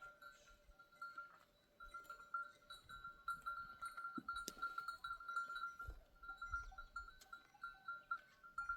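Bells on a flock of sheep and goats jingling continuously and irregularly as the animals move, with a few soft knocks.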